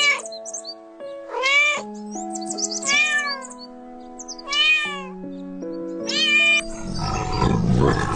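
Domestic cat meowing five times, about every second and a half, over background music of long held notes. Near the end a low, rough roar sets in.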